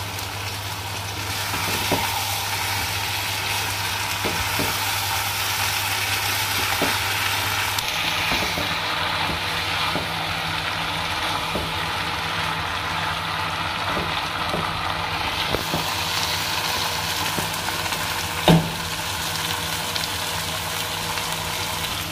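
Okra, chicken and onions sizzling steadily in a nonstick wok as they are stirred with a spatula. The spatula gives scattered light knocks against the pan, with one louder knock near the end.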